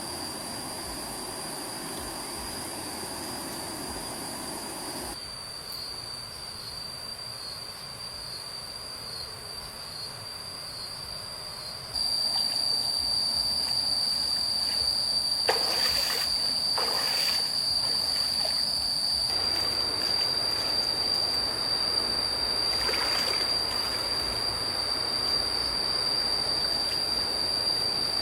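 Steady high-pitched drone of jungle insects over the trickle of a stream, with a few short knocks about halfway through.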